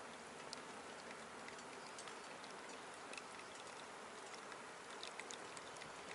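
Small wood fire in a stainless-steel box stove: a faint, steady hiss with scattered small crackles and pops.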